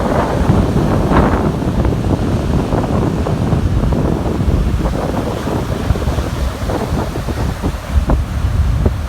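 Strong storm wind buffeting the microphone over heavy surf breaking on the beach, driven by a passing hurricane. The wind rises and falls in gusts.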